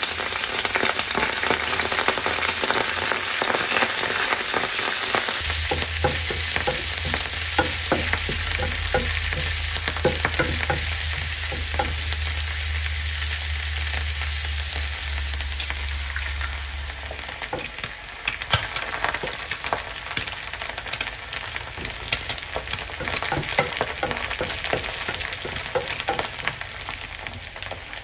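Shredded cabbage frying in a nonstick pan, a steady sizzle with many small scrapes and taps of a wooden spoon stirring it. The sizzling grows somewhat quieter in the last third.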